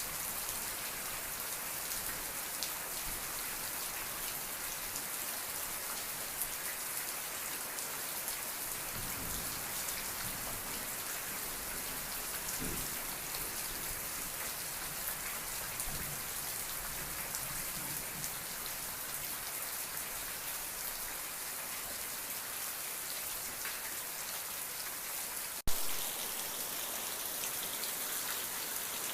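Steady rain falling, a dense even patter of many drops. A single sharp click sounds about 26 seconds in.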